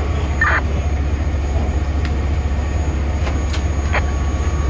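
Fire apparatus diesel engine running steadily with a constant low drone. A few short knocks and clicks sound over it.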